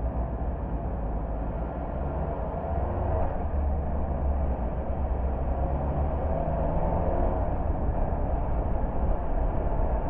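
A car being driven, with steady low engine and tyre rumble that grows slightly louder a few seconds in.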